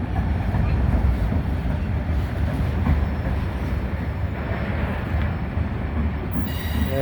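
Freight train cars rolling past on the rails: a steady low rumble of wheels on track.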